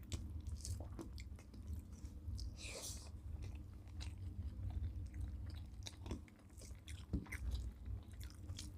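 Soft chewing and mouth sounds of people eating rice mixed with shukto, with scattered small smacks and clicks over a low steady hum.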